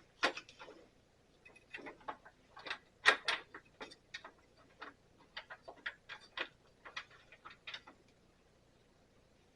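Irregular metallic clicks and taps of hand tools and hardware while a nut is being run onto a carriage bolt on a bandsaw; the nut is a crimped locking nut that binds instead of spinning on. The clicking stops about eight seconds in.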